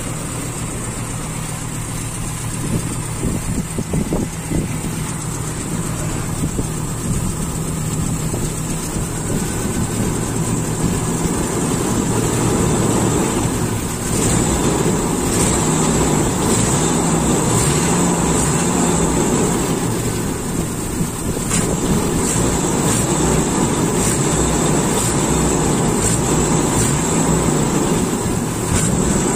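Toyota Kijang Super's carburetted four-cylinder engine running at a rough, limping idle, getting louder and staying louder about halfway through while the carburettor is worked by hand. The limp is a misfire that the mechanic traces to cylinder 4 not firing, suspecting a half-blocked carburettor idle jet.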